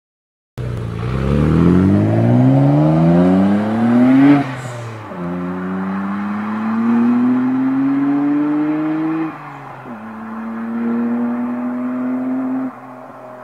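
Nissan Skyline GT-R's twin-turbo straight-six pulling hard through the gears. The revs climb steadily, drop at an upshift about four seconds in, climb again, drop at a second upshift about nine seconds in, then climb once more. Near the end the throttle is lifted and the sound falls away quieter.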